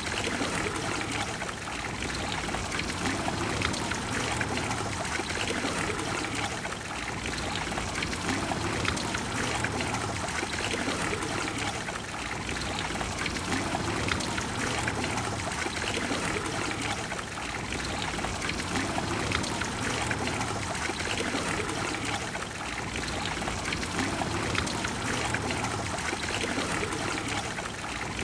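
The Trevi Fountain's water flowing in a steady, unbroken rush.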